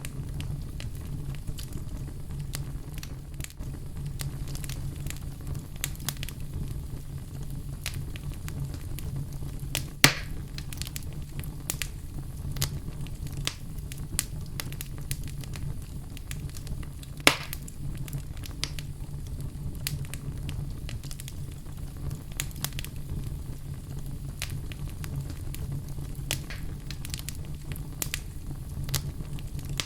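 Wood fire in a fireplace crackling steadily, with frequent small irregular snaps over a low rumble of flame and two sharp louder pops, about ten and seventeen seconds in.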